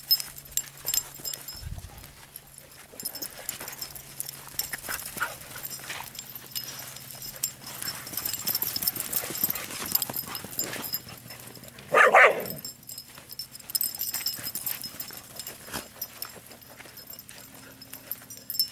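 Dogs digging and scrabbling in dirt, with many small scattered scratches and clicks. About twelve seconds in, a dog gives one short, loud cry, the loudest sound.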